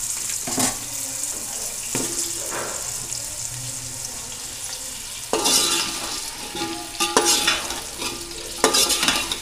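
Potato chunks sizzling as they fry in hot oil in a metal pot. From about halfway, a metal slotted spoon scrapes and clatters against the pot in three bouts as the potatoes are stirred.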